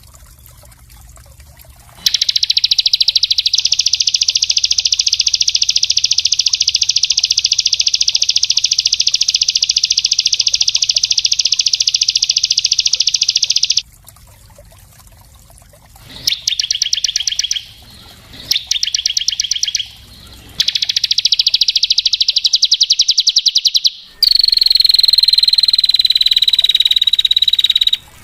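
Small songbird singing rapid, tightly pulsed trills: one long unbroken trill of about twelve seconds, then three shorter bursts. Near the end comes a different, steadier call that glides slightly down in pitch.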